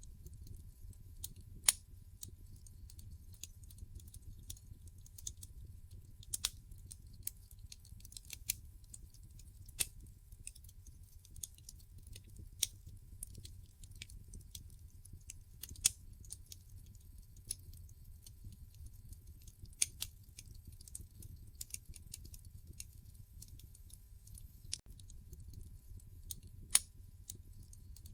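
Wood logs crackling in a fireplace: irregular sharp pops and snaps over a steady low rumble, with a louder pop every few seconds.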